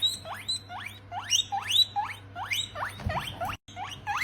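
A rabbit squeaking: a quick run of short, high squeaks, each rising sharply in pitch, about three a second, broken by a brief gap near the end.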